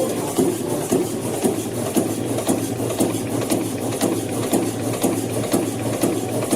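Old stationary diesel engine running steadily, with a regular beat of about three strokes a second.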